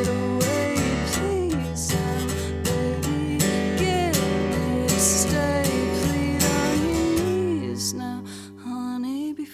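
Live acoustic performance: strummed acoustic guitar under a bending, held melodic line, thinning to a few sparse plucked notes near the end.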